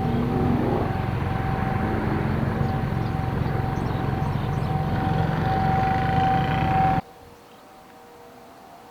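Steady road and engine noise heard from inside a moving car, cutting off abruptly about seven seconds in to a much quieter background.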